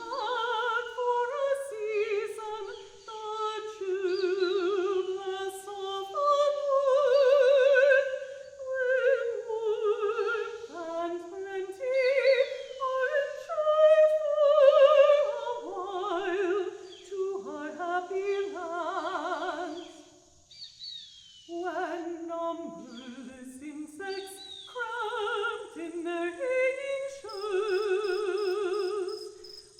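Operatic voice singing long, high notes with wide vibrato, sliding from pitch to pitch, with a brief break about two-thirds of the way through. Faint high, falling bird calls from recorded field recordings sound behind the voice.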